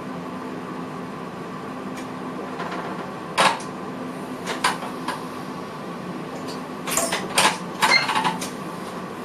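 Steady hum in the cab of a VIRM electric train. A handful of sharp clicks and rattles come about three and a half seconds in, and again in a cluster between seven and eight and a half seconds.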